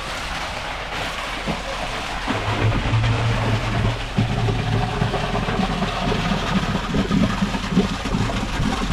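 Concrete boom pump running during the pour: a steady engine hum under a broad wash of noise, with a stronger low tone coming in for a couple of seconds about two seconds in.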